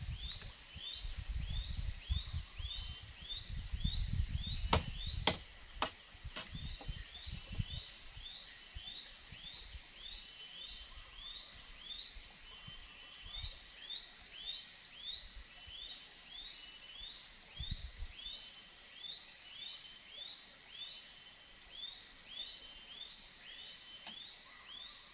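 Jungle ambience: a steady high insect drone with a short chirping call repeated about twice a second throughout. In the first several seconds there is low rumbling noise and a few sharp clicks about five to six seconds in.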